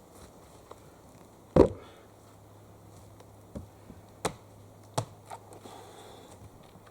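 Axe chopping into a hard, wet log that is not splitting: one heavy chop about a second and a half in, then three lighter knocks.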